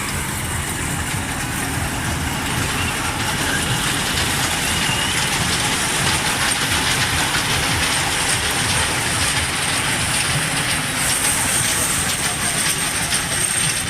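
Small night-market amusement train ride running steadily, giving a continuous low noise as it moves along.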